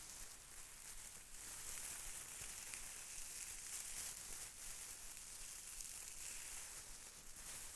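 Hands rustling and crinkling a material, a soft, continuous crackly hiss.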